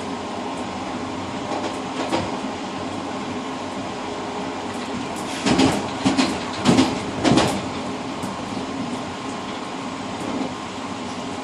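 Passenger train running, heard from inside the rear car's cab vestibule: a steady rolling rumble with a faint hum. About halfway through come four heavy clacks in quick succession as the wheels knock over the rail joints.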